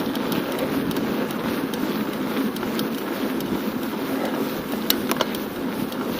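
Steady rolling noise of a bicycle riding on a paved track, tyres and wind together, with a couple of sharp clicks about five seconds in.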